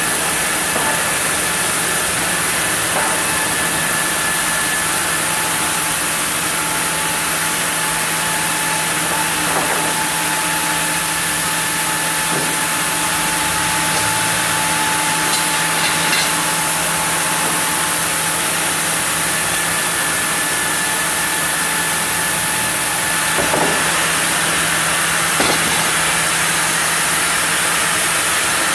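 Sawmill saw running steadily as it cuts through a block of zelkova hardwood, a constant machine hum and hiss with a few faint knocks.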